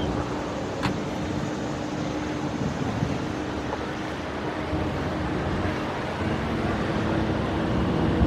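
An engine running steadily, a low even hum under outdoor background noise, with a single brief click about a second in.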